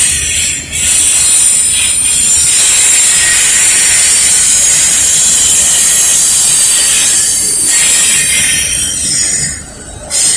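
Cars of a Norfolk Southern mixed freight train rolling past, their steel wheels squealing on the rail in a steady high-pitched tone over the rumble of the cars. The sound dips briefly near the end.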